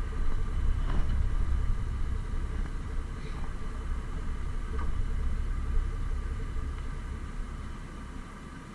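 Kenworth T660 semi truck's diesel engine running with a low, steady rumble that eases off slightly near the end.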